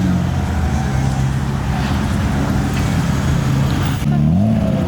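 Car engine idling steadily, with a short rev that rises and falls back about four seconds in.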